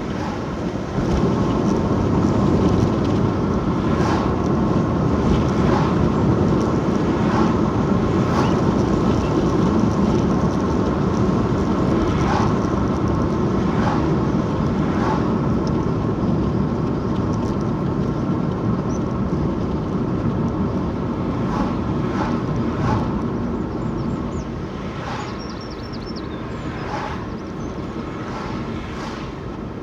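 Steady road and engine rumble of a moving car, heard from inside the cabin, with scattered short knocks over it. The rumble picks up about a second in and eases off somewhat near the end.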